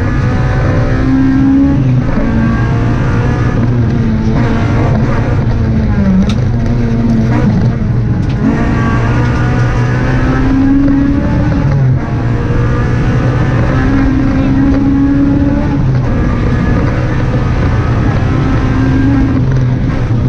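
Honda Civic Type R rally car's four-cylinder engine at full stage pace, heard from inside the cabin. The revs climb and fall back again and again with gear changes and lifts, with a brief lift about twelve seconds in.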